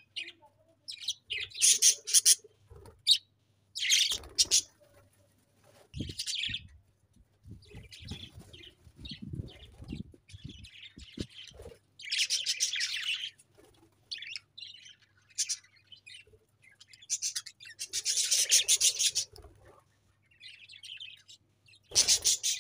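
Budgerigars chirping and chattering in repeated bursts of rapid, high trills, with short pauses between them. Faint low knocks and rustling come in about the middle.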